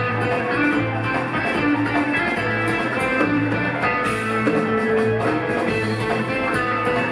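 A live rock band playing an instrumental passage: guitar over a pulsing bass line and drums.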